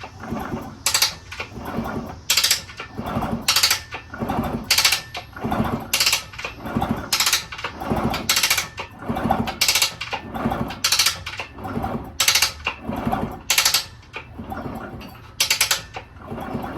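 Minarelli P4-70 two-stroke engine of a 1974 Indian SE74 being turned over again and again with the spark plug out, about once a second, with clicking from the kickstart mechanism and gears. There is a little crunching noise in the turning-over, which is being worked freshly added oil through the wet clutch and gearbox.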